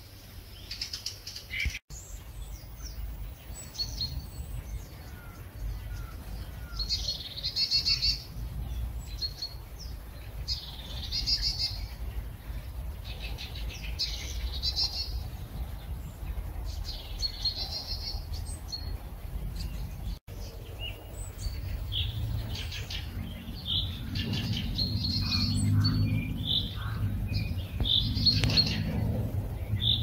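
Songbirds singing in the trees, one bird repeating a short, high song phrase every three to four seconds with other chirps between, over a low rumble that grows louder in the second half.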